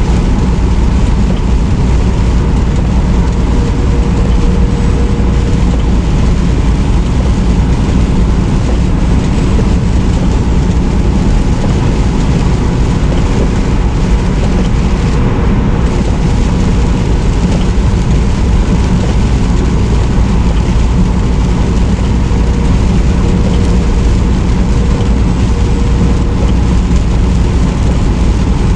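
Steady drone of a semi truck cruising on the highway, heard from inside the cab: low engine drone under an even rush of road noise.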